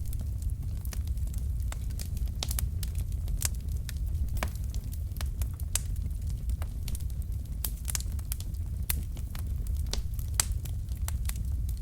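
Wood fire crackling: burning logs popping in irregular sharp snaps, several a second, over a steady low rumble of the flames.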